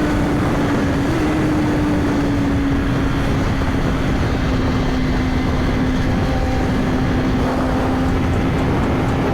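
Suzuki GSX-R1000 inline-four engine at steady highway cruise, its note easing slightly lower in pitch, under heavy wind noise buffeting the helmet microphone.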